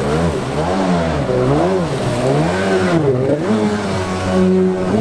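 Two-stroke stand-up jet ski engine under throttle, its pitch rising and falling about once a second as the throttle is worked on and off, then holding steadier near the end.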